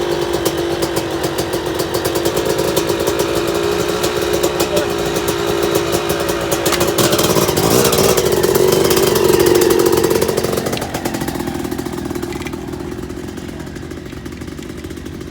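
Motorcycle engine running steadily, then revving up for a few seconds about halfway through before easing off and settling to a quieter, lower note.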